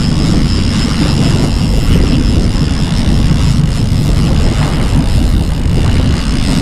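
Steady low rumble of wind buffeting the microphone over a running boat motor while trolling.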